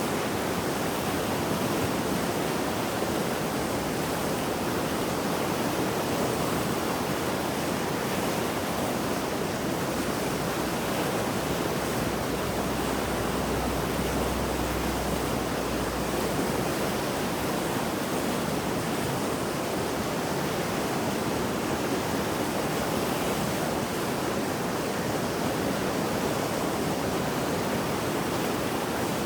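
Swollen mountain river in flood after heavy rain, rushing water making a steady, dense roar with no breaks.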